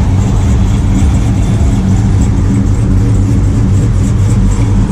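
A car engine idling steadily up close, a deep, even rumble with no change in pitch.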